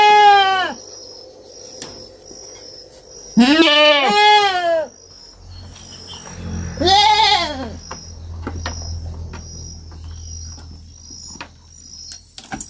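Young goat (kid) bleating: a call at the very start, two back-to-back calls a few seconds in, and one more about halfway through, each a short arched cry.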